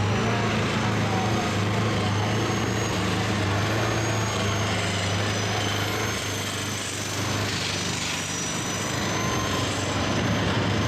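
Tractor engine running loudly and steadily, with a slight easing about seven seconds in.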